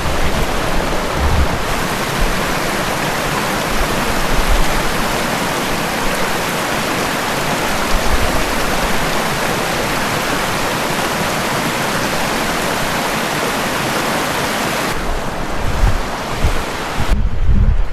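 A mountain stream rushing steadily over rocks, a loud, even hiss of running water. Near the end the rush drops away and low wind rumble on the microphone takes over.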